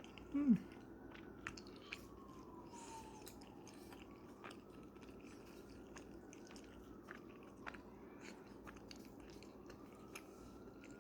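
A person chewing and biting food, with faint crunchy clicks. A short voiced sound, falling in pitch, comes about half a second in.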